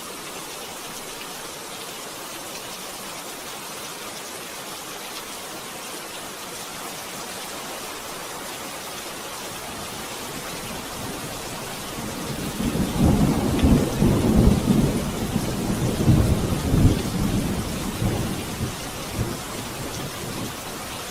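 Steady rain hissing, with a long roll of thunder that comes in a little over halfway through, rumbles and rolls for several seconds, then fades back into the rain.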